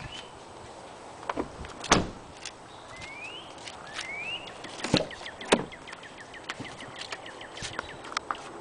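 Car doors of a 1999 Mercedes E430 being opened and shut: a heavy clunk about two seconds in, then two more clunks around five seconds, with lighter clicks of latches and handles between them.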